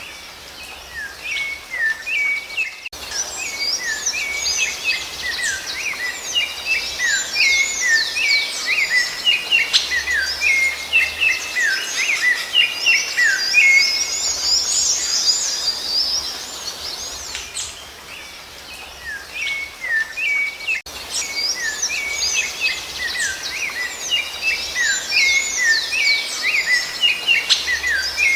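Songbirds singing in a dense chorus of quick chirps and downslurred whistles, with abrupt breaks about 3 seconds in and again near 21 seconds.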